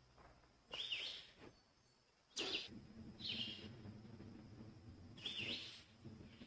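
A bird calling, faintly: four short chirps with a quick bending note, spaced irregularly about a second or more apart, over a low steady background hum.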